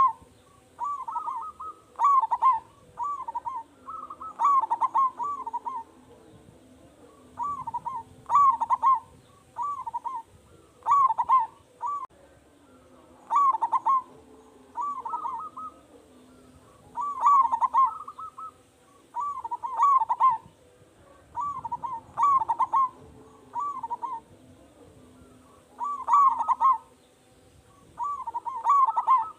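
Zebra dove (perkutut) cooing: short phrases of a few quick, rolling coos, repeated about every two seconds.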